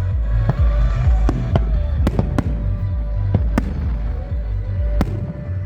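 Fireworks display going off: about eight sharp bangs at irregular intervals over a continuous low rumble of booms.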